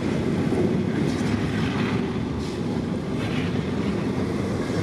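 Freight train cars rolling past: a steady low rumble of wheels on rail, with a few faint clicks from the wheels.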